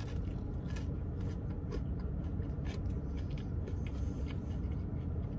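Chewing and crunching a mouthful of a hand-breaded fried chicken sandwich with bacon and cheese, with many small crackles and clicks, over a steady low rumble inside a car.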